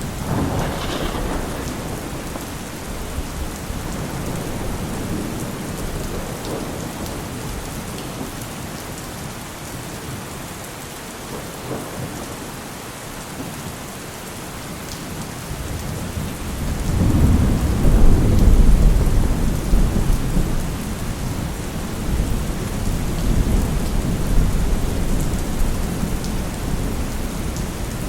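Heavy rain falling steadily, with rolling thunder. A rumble fades away in the first few seconds. A louder, deep rumble builds about two-thirds of the way in and rolls on for several seconds, easing slowly.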